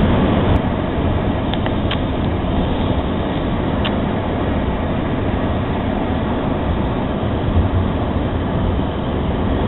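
A passing train, its wheels on the rails making a steady loud rumble, with a few brief faint high squeaks or clicks in the first four seconds.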